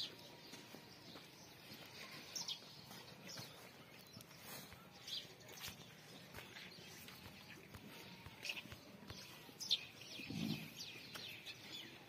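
Small birds chirping on and off, with scattered faint clicks and a short low sound about ten seconds in.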